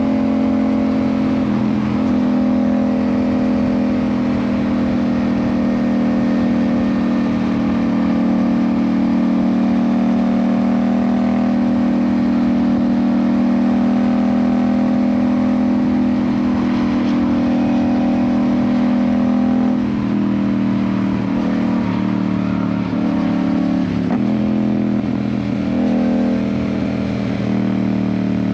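Yamaha MT-07's 689 cc parallel-twin engine, fitted with an IXIL exhaust, running under steady throttle while riding, its pitch creeping slowly up. About two-thirds in the revs drop and then rise and fall unevenly as the throttle is eased and reapplied.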